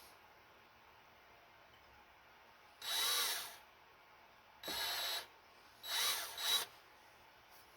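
Corded electric drill run in three short bursts, each under a second, as it drills out a broken bolt in a cast-iron engine block.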